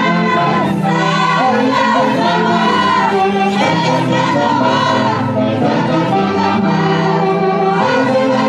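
Music from an Andean festival orchestra playing steadily, with voices singing over it.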